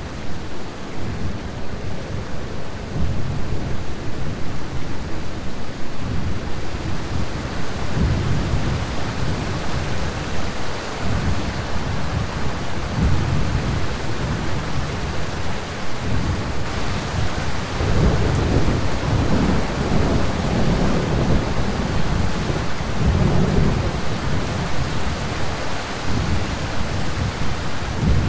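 Thunderstorm noise: a continuous low rumble of wind and rain that swells and eases in gusts.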